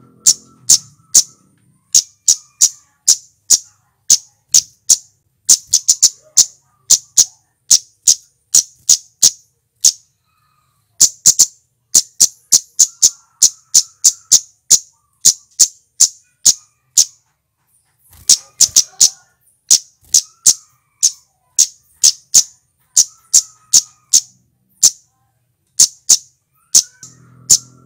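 Male flowerpecker (cit keres, cabe-cabean) giving sharp, high chip calls in fast runs of about three a second, pausing briefly twice.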